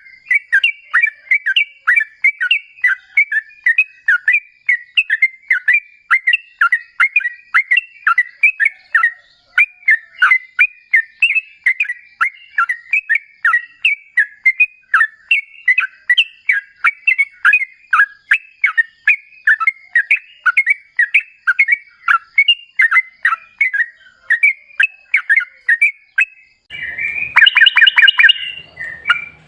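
Yellow-vented bulbul (trucukan) singing a long, continuous run of short, quick bubbling notes, two to three a second. Near the end it becomes a louder, denser burst of chatter.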